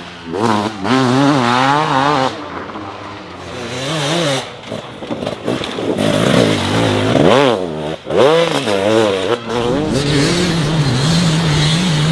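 Dirt bike engine revving, its pitch rising and falling again and again as the throttle is opened and shut.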